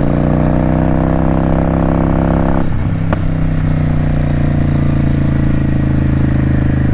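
Motorcycle engine pulling with its pitch slowly rising, then a short dip and a sharp click about three seconds in, as at a gear change, after which it runs at a steady pitch.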